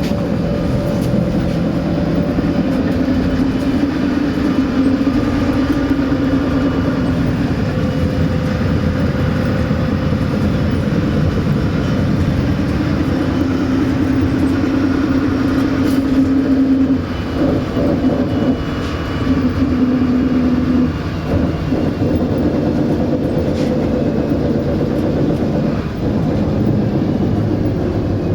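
MAZ 107.066 city bus under way, heard from inside the cabin: the engine runs steadily with road and tyre noise. Its pitch holds, then changes, and the level dips briefly a few times in the second half.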